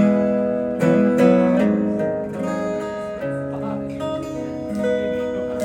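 Acoustic guitar playing the opening chords of a song, each chord struck and left ringing.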